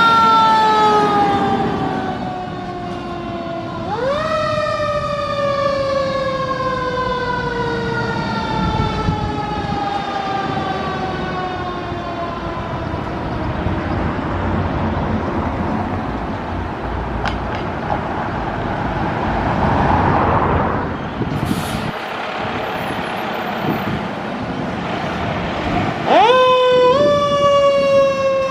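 Fire engine sirens responding: a siren winds up sharply and then falls slowly in pitch over several seconds, twice, over the truck's engine and road noise. Near the end another siren rises sharply.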